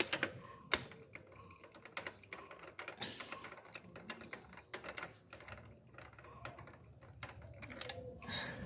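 Scattered light clicks and taps from handling a removed spark plug, at an uneven pace.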